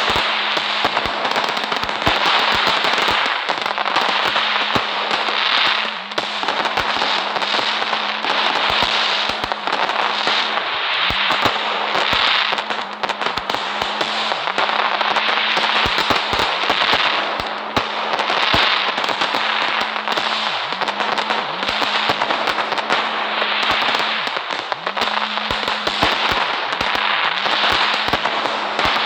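Fireworks crackling without a break, a dense stream of sharp pops and snaps, over a steady low hum.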